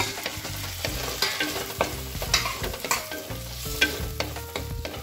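Freshly added chopped tomatoes sizzling in the hot handi with onions and butter, while a spatula stirs and scrapes them around the pot, with sharp scraping strokes scattered through the sizzle.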